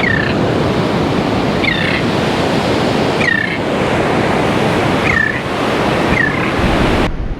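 Ocean surf washing steadily on a beach, with a bird giving five short, downward-hooked calls over it. The surf cuts off abruptly just before the end.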